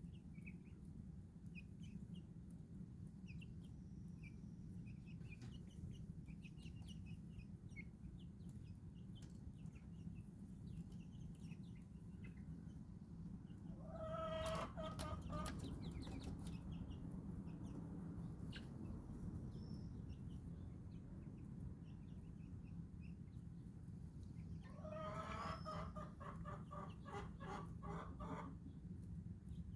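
Backyard chickens in a coop: two bouts of hen calls, one about halfway through and a longer run of quick repeated notes near the end, over soft, scattered high chirps and a steady low background hum.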